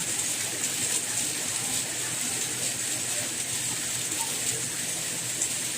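Steady rainfall: an even, high hiss of falling rain with faint scattered drop ticks, unchanging throughout.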